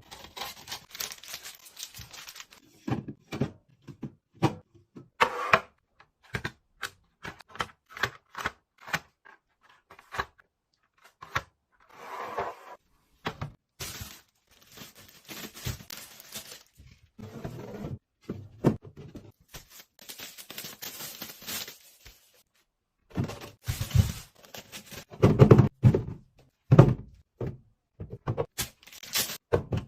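Food containers, lids and packaging being handled and set down while restocking and organizing a pantry and fridge: a string of irregular clicks, taps and light thunks with brief rustling. Heavier thuds come near the end.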